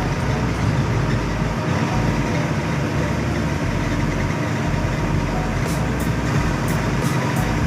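Hino AK8 front-engined bus's diesel engine running steadily under way, with road noise, heard from inside the passenger cabin. Faint light ticks come in near the end.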